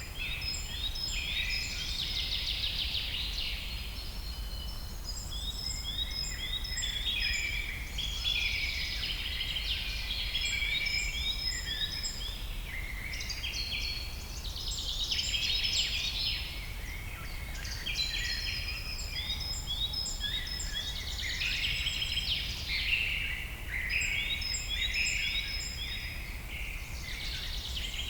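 Several songbirds singing and calling at once: overlapping chirps and quick runs of repeated short notes, over a steady low rumble.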